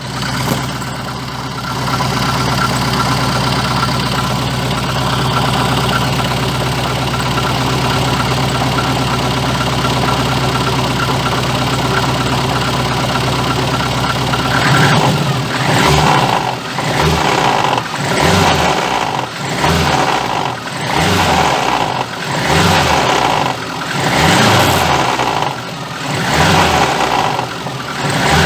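VAZ-2114 four-cylinder engine running steadily, then revved in a quick series of short throttle blips, about one every second and a half, the revs dropping back each time. The owner is chasing a knock that comes as the throttle is released, which he links to the crankshaft damper pulley wobbling.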